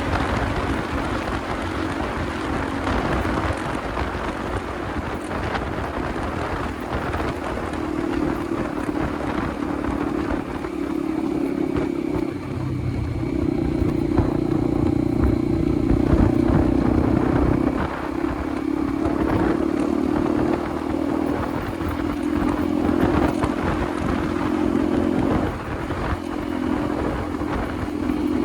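Motorcycle engine running steadily while riding, its note shifting a few times as the throttle changes, over wind and road noise.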